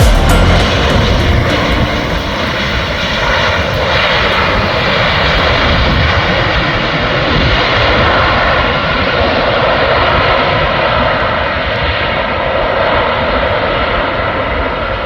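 Jet airliner's engines running with a loud, steady rush and a faint whine that holds throughout.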